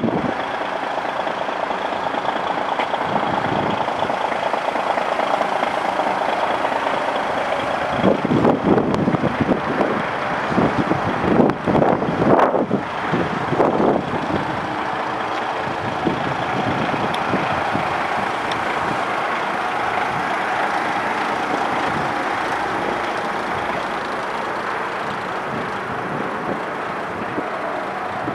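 DAF XF450 truck tractor's diesel engine running steadily, with a stretch of louder, irregular noise about a third of the way in.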